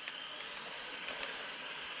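Small 1/16 scale RC truck's brushed 370 electric motor running at speed, a steady whine over a hiss.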